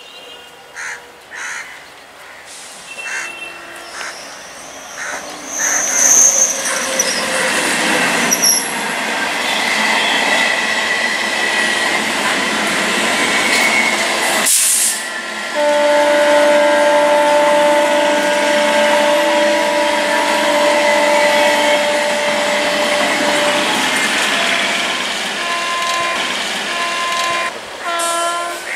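Electric multiple-unit local trains running on the line. The wheel and rail noise builds as one approaches. After a break, another EMU passes close by, and a steady pitched tone holds over its running noise for several seconds.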